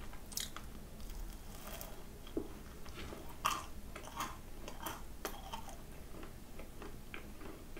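Close-miked chewing of a mugwort ang-butter macaron, with soft, irregular wet mouth clicks and smacks.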